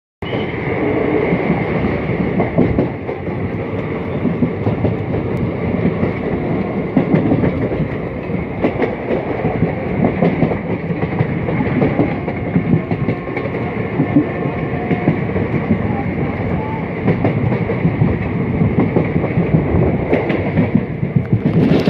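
Passenger train running at speed, heard from inside a moving coach: a steady, loud rumble of wheels on track with irregular clattering clicks over the rail joints.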